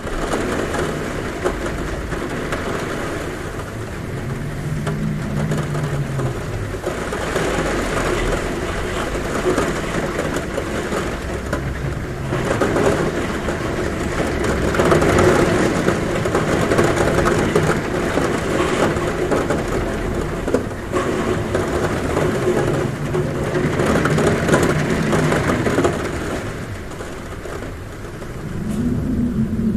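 Heavy rain falling on a roof, a steady dense noise. A low hum, which the recording presents as wind at the window, swells and fades several times.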